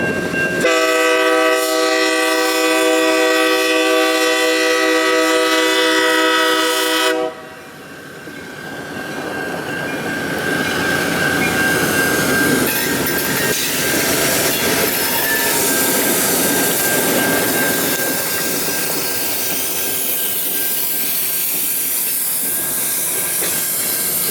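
Light rail train horn held in one long steady blast for about six seconds, cutting off suddenly. Then a light rail train runs by with rising wheel and rail noise and a thin steady high whine over it.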